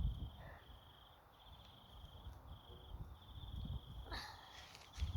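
An insect chirping steadily in short, high, repeated trills with brief gaps between them. A brief rustle of handling comes about four seconds in.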